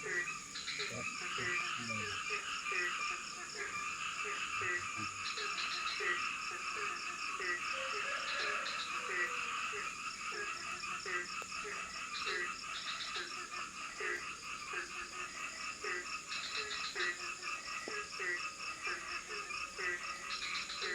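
Tropical forest frog chorus: one frog gives short, low, falling croaks in a steady series of about one and a half a second, over a dense chorus of other frogs and insects with a steady high buzz.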